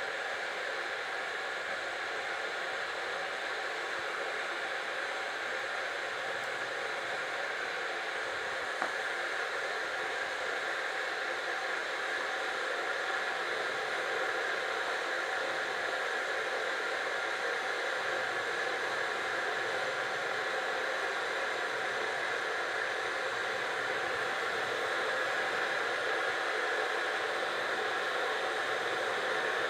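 Hölmer electric kettle heating a full 1.8 litres of water: a steady hiss that slowly grows louder as the water nears the boil. A faint click about nine seconds in.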